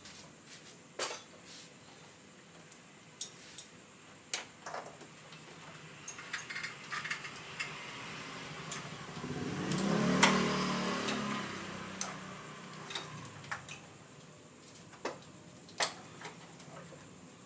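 Metal tools and parts clinking and knocking in scattered single strikes, with a louder rattling, scraping swell of a few seconds about ten seconds in.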